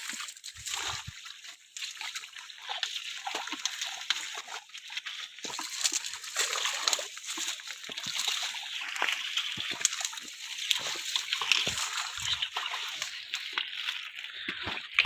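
Pond water splashing and sloshing irregularly throughout, as hands grab at fish in the water.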